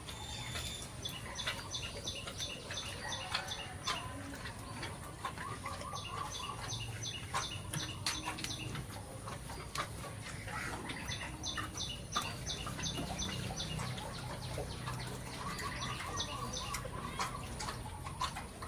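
Birds calling: a fast run of short, high notes, repeated every few seconds, with lower trilling calls between, over a steady low rumble.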